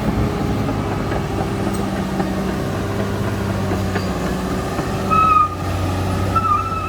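Caterpillar D6R XL crawler bulldozer's diesel engine running steadily, with irregular clanking from its steel tracks. A high whine comes in briefly about five seconds in and again near the end.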